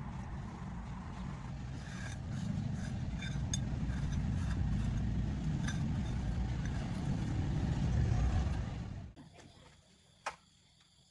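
A vehicle engine running with a low, steady rumble that grows louder about two seconds in, then cuts off abruptly near the end. A single click follows in the quiet.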